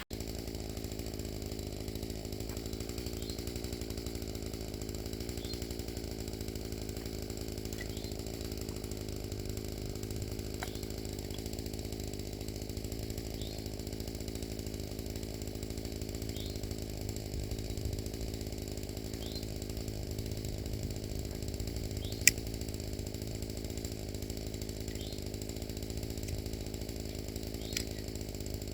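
Small gasoline engine running steadily at an even speed, with one sharp click about two-thirds of the way through.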